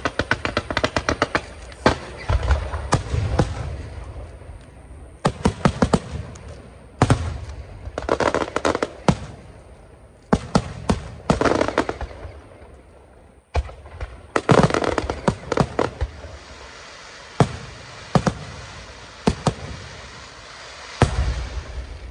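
Fireworks going off in quick volleys of sharp bangs and crackling, with a fast rattling run at the start and short lulls between clusters. A heavy boom with a low rumble comes near the end.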